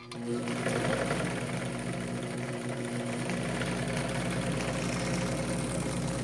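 Vintage Modernage Model 770 zig-zag sewing machine starting up about half a second in and then sewing steadily: motor hum under a fast, even clatter of the needle mechanism.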